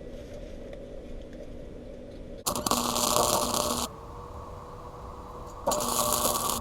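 Welder laying two tack welds to join a steel exhaust tip to its pipe: two bursts of crackling arc noise, about a second and a half and two seconds long, with a faint steady hum between them.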